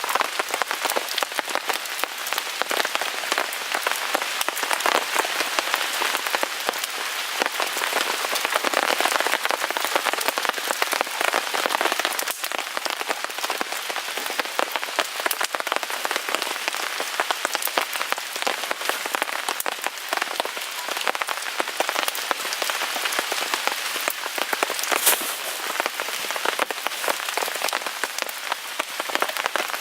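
Steady rain pattering on a tarp, a dense, even spatter of drops, with one sharper crack near the end.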